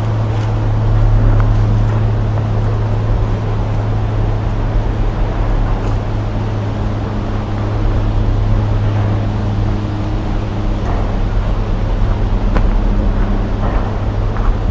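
A steady low engine-like drone with faint ticks over it.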